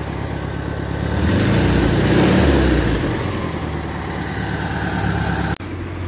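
Volkswagen Beetle's air-cooled flat-four engine idling through its old stock exhaust, which barely makes a sound. About a second in it is revved briefly, then it settles back to a steady idle.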